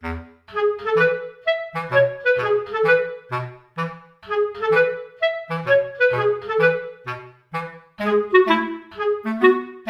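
Background music: a bouncy tune of short, detached clarinet-like notes over a plucked bass line.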